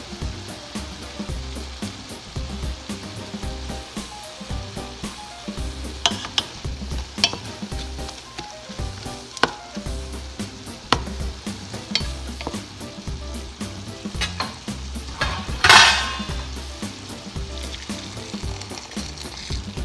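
Chicken and vegetables sizzling in a hot pot while a wooden spatula stirs them, with several sharp knocks of the spatula against the pot. A sudden loud hiss comes about three-quarters of the way in, and water pours into the pot near the end.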